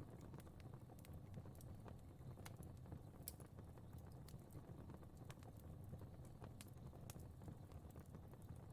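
Fire crackling softly: irregular sharp pops and ticks over a low, steady rumble of flame.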